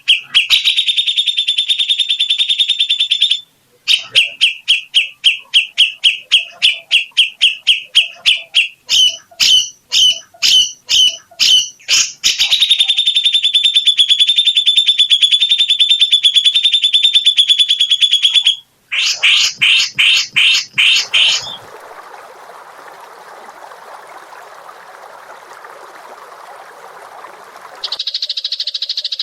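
Songbird song on an edited bird-training track: fast trills of repeated chirps and a long buzzing trill, then a harsh, hissing rattle for several seconds and a steady high buzz, with sudden cuts between phrases.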